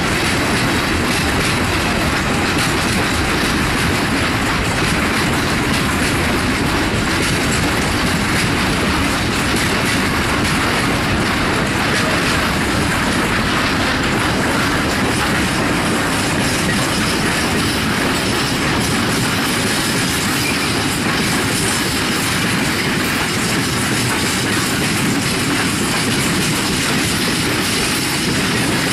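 Long freight train rolling past at steady speed: the wheels of high-sided open wagons and then empty flat wagons clattering rhythmically over the rail joints.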